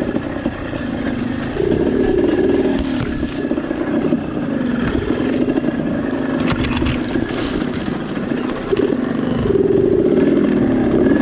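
Trail motorcycle engine running under way, its pitch rising and falling as the throttle is opened and closed, with a few rattles about halfway through.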